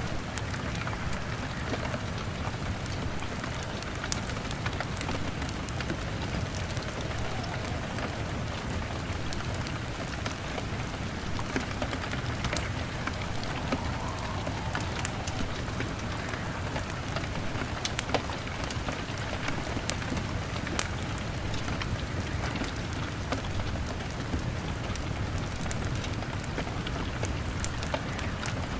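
Steady rain on a window, with a wood fire crackling. Many small sharp clicks and pops are scattered throughout over an even hiss and a low steady rumble.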